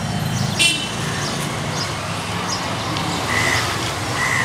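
Outdoor street ambience: a steady low rumble with birds calling over it, a single sharp squawk about half a second in, then a few short high chirps near the end.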